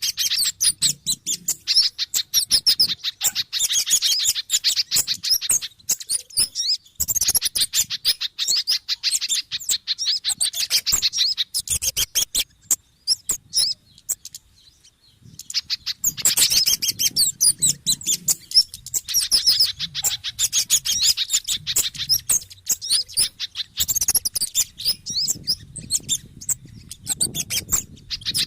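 Bird-lure recording of small birds' agitated chattering: kemade mixed with sogon (sunbird) and pijantung (spiderhunter) calls. Rapid, high-pitched notes come in dense runs, broken by a couple of short pauses.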